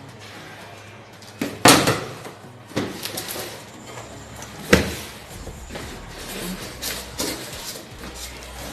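Knocks and rustling of a boxed microwave oven and its packaging being handled and unpacked, with a sharp knock about two seconds in and another near the middle.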